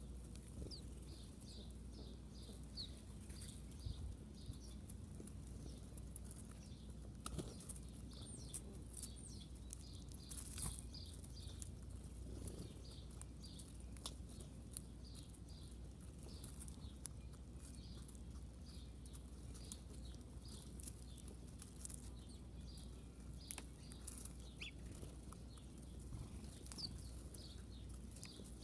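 Small birds chirping in runs of short, high, evenly repeated notes, about three a second, with scattered faint clicks and taps.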